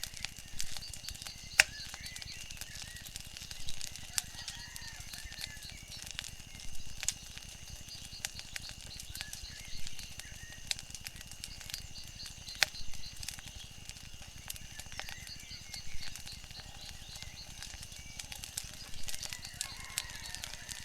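Wood fire crackling, with sharp pops every second or two, over a steady high-pitched drone and faint chirps.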